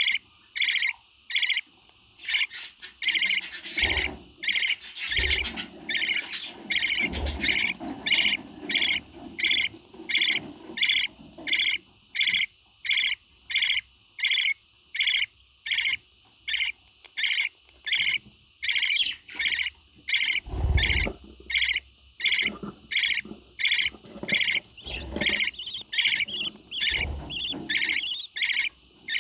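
A parrot repeating the same short, high chirping call over and over at a steady pace of about two calls a second.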